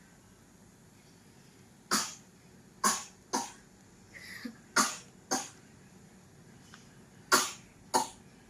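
A sick child coughing in short, sharp coughs, mostly in pairs, about seven in all.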